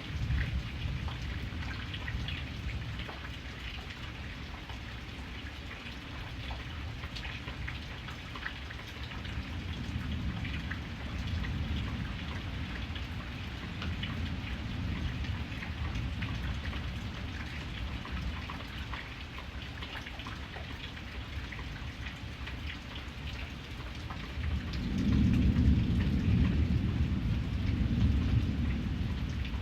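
Steady rain with many small drops pattering, over low rolling thunder that swells and fades several times, loudest near the end.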